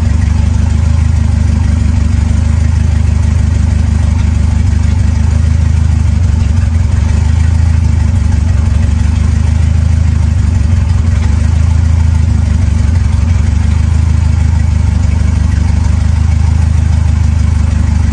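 Swapped Ford 2.3-litre turbocharged Lima four-cylinder idling loud and steady, running on a newly set-up PiMPX standalone engine computer soon after its first start.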